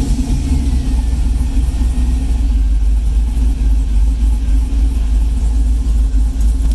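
Turbocharged LS V8 in a Camaro IROC-Z, just started, idling steadily with a deep exhaust rumble.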